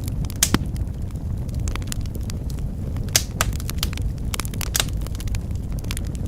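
Wood fire in a fireplace crackling, with irregular sharp pops over a steady low rumble of burning; a few louder snaps come about half a second in and around three and five seconds.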